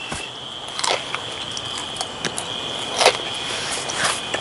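Crunching of a person chewing crispy deep-fried curly fries, sharp crackly crunches at irregular intervals, over a faint steady high-pitched whine.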